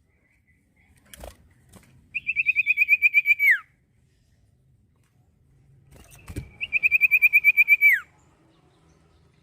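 A common iora (cipoh) sings two fast trilled phrases of about ten notes a second, each ending in a falling note, a few seconds apart. Two faint knocks come just before each phrase.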